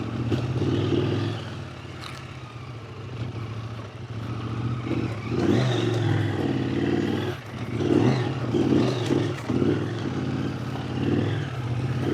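Husqvarna Norden 901's parallel-twin engine running under way, its pitch rising and falling as the throttle is opened and eased off.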